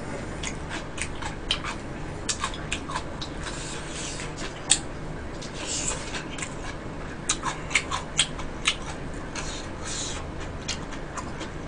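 Close-miked eating: food being chewed with wet mouth clicks and smacks, irregular sharp ticks scattered throughout, busiest near the middle and again in the last few seconds.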